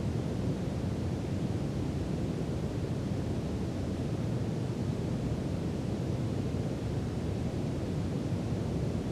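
Brown noise: a steady, deep rushing hiss heavy in the low end, with no changes or events, played as a sleep noise bed.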